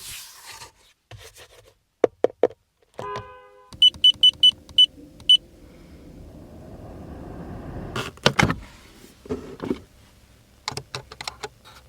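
Car sounds: a few clicks, then a short electronic chime, then six short high-pitched beeps. After that a hiss rises steadily for a few seconds, heavy clunks follow, and a string of clicks ends the sequence.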